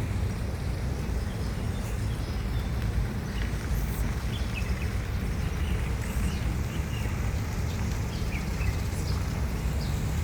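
Outdoor ambience: small birds chirping, short high calls scattered through, over a steady low rumble.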